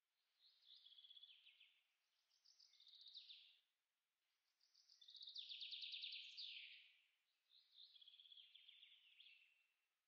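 Faint songbird song: a few short phrases of rapid trilled notes, each stepping down in pitch, with pauses between them.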